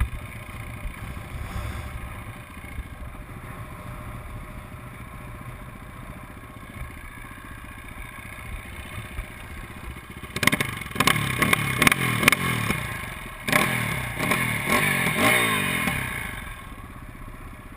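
Motocross bikes' engines: a steady distant running at first, then about ten seconds in loud revving with rising and falling pitch as bikes come close, in two bursts that fade again near the end.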